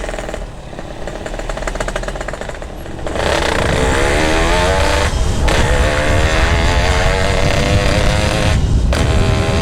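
Yamaha RX-King two-stroke single-cylinder motorcycle with a GRT18 aftermarket exhaust, ridden on the road. The engine runs lightly at first, then opens up about three seconds in, its pitch wavering and climbing, with brief breaks around five and nine seconds.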